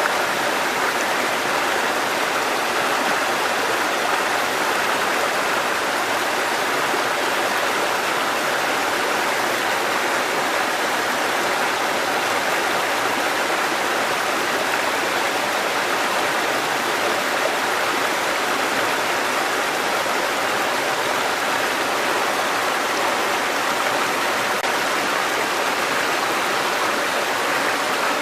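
Water cascading over rocks in a mountain stream: a steady, even rush.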